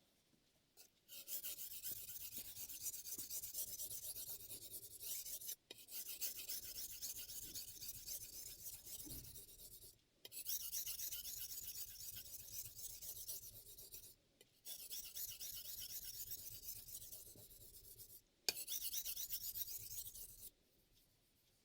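Steel chef knife blade being stroked rapidly back and forth on a Shapton M15 1000-grit ceramic whetstone, a gritty scraping rasp. It comes in five spells of strokes broken by short pauses.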